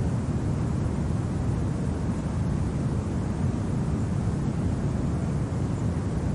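Steady winter wind, a low even rush without gusts, clicks or other separate sounds.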